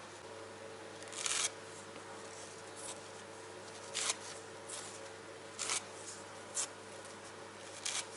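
Spatula scraping stiff grout into fireplace joints: a series of short, separate scrapes every second or so.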